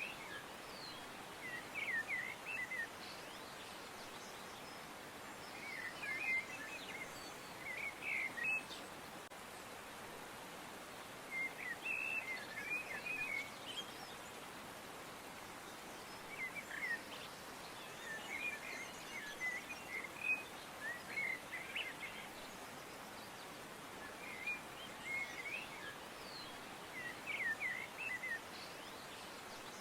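Small birds chirping in short twittering phrases every few seconds over a steady background hiss.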